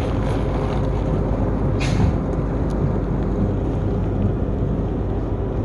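Truck engine running steadily as it pulls the trailer away, with a short hiss about two seconds in. The sound cuts off suddenly at the end.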